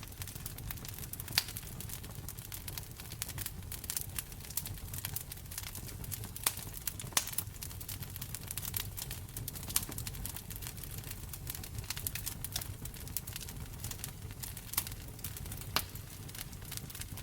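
Wood fire crackling in a fireplace: a dense, irregular stream of small pops and snaps over a steady low rumble of the flames, with a few sharper pops standing out.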